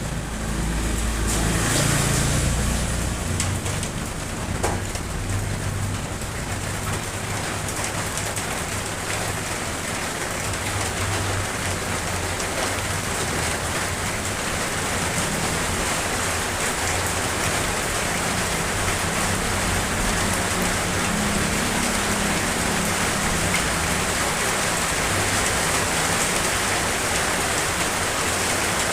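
Steady rain falling, an even hiss of many drops. A low rumble swells and fades over the first few seconds.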